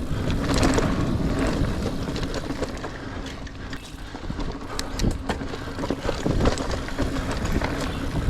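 Niner Air 9 RDO 29er mountain bike rolling over dirt singletrack: tyre noise with frequent sharp clicks and knocks from the bike rattling over roots and rocks, and wind buffeting the microphone.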